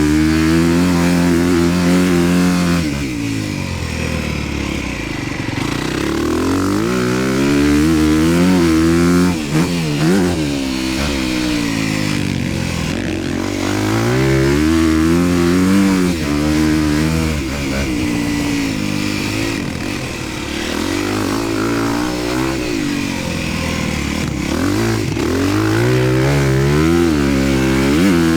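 Honda dirt bike engine being ridden hard, revving up and dropping back over and over as the throttle opens and closes and the gears change.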